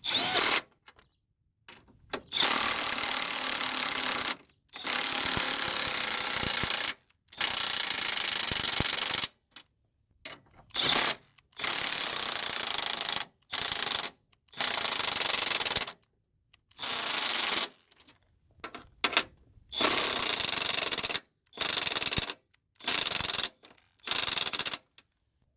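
Cordless power wrench running in short repeated bursts of about half a second to two seconds, with brief pauses between them. It is tightening the upper strut mount nuts a little at a time on each nut.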